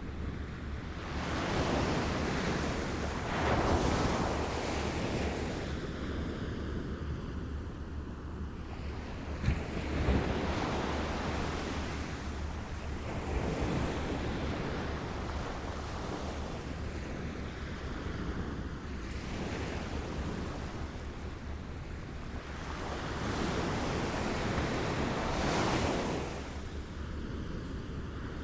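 Small waves lapping and washing onto a shore, swelling and falling back in slow surges every few seconds, with a brief sharper splash about ten seconds in.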